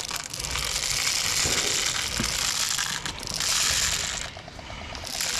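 Airsoft high-capacity magazine being wound by its thumbwheel: rapid ratchet clicking, with a short break and then a longer pause near the end.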